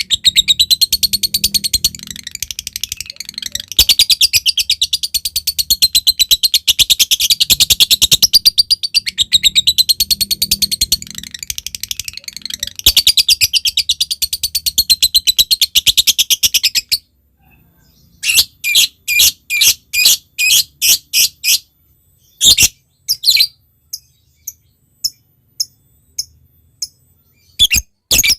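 Lovebird in full song: a long, rapid, high-pitched chattering trill (the 'ngekek') that runs unbroken for about seventeen seconds, then breaks off into a series of separate sharp chirps with short gaps between them.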